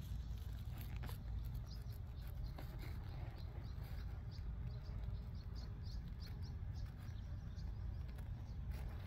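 A small bird chirping repeatedly, short high chirps a few times a second, over a steady low outdoor rumble.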